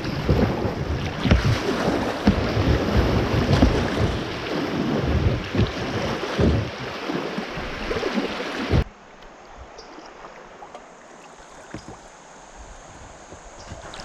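Wind buffeting the microphone over water and paddling sounds from a kayak on a river. About nine seconds in it cuts off suddenly to a much quieter stretch of faint water sounds.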